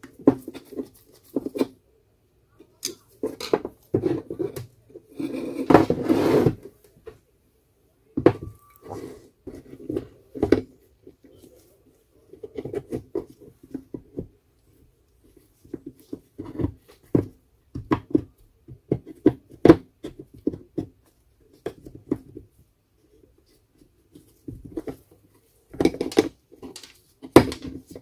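Irregular clicks, taps and rattles of small tools and plastic and metal parts being handled, with one longer scraping noise about five seconds in; the grinder's motor is not running.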